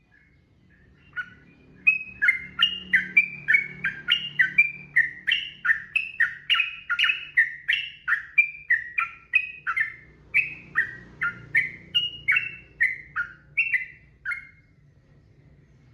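Trucukan (yellow-vented bulbul) singing a long, unbroken run of short, downward-slurred whistled notes, about two to three a second. The song stops shortly before the end.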